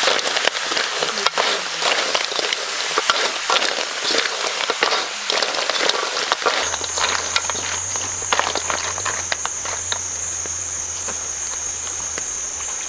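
Food sizzling and crackling as it cooks over a fire, with many sharp pops for the first half. Then it changes abruptly to a steady high drone of insects, with fainter crackling under it.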